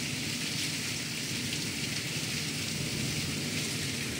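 Heavy rain pouring steadily onto a concrete patio, an even hiss with no breaks.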